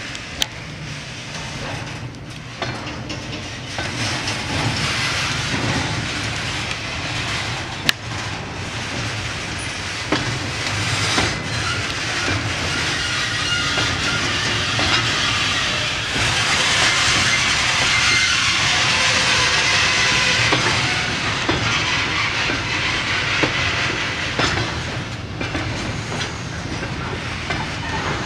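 Train of empty flat wagons rolling slowly on the rails during shunting: a steady rumble and clatter of wheels, with a couple of sharp knocks, loudest about two thirds of the way through.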